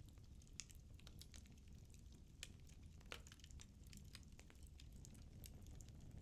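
Firewood burning in a fireplace, crackling faintly: irregular small snaps and pops over a low, steady rumble of the flames.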